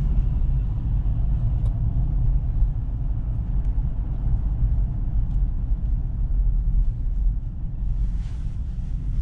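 Ford Ranger pickup truck driving along, a steady low rumble of engine and road noise with no marked revving.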